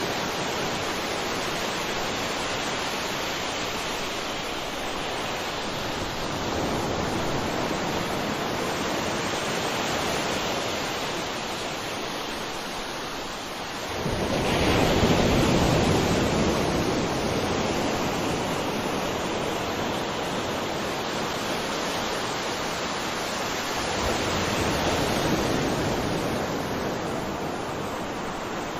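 Ocean surf: a steady wash of waves, with one wave breaking about halfway through, the loudest moment, and smaller swells about a quarter in and near the end.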